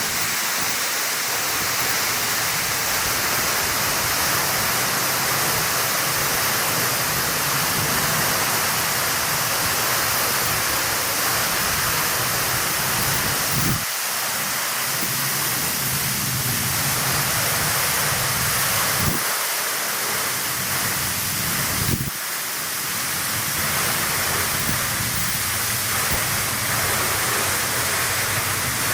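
Steady rush of a tall vertical waterfall, about 38 m of water falling onto its plunge pool.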